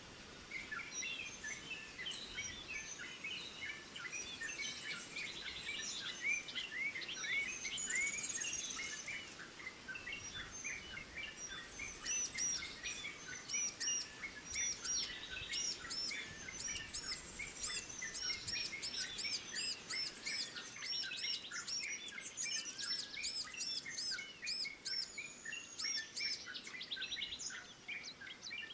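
Many small songbirds chirping at once, short high calls overlapping densely, with runs of quick repeated high notes joining from about the middle on.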